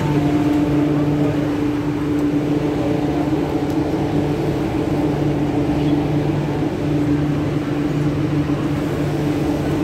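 Steady low hum of an MTR Q-Train's onboard equipment while the train stands at a station platform with its doors open, over the general noise of passengers moving about.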